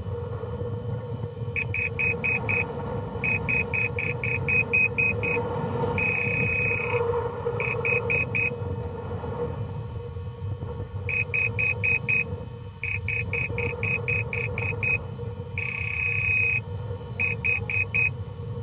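Rocket's on-board flight computer beeping: groups of short, high, quick beeps, about six a second, broken by an occasional long beep, the pattern repeating about halfway through, the way an altimeter beeps out its readout once the rocket is down. Under it runs a steady low rumble and hum.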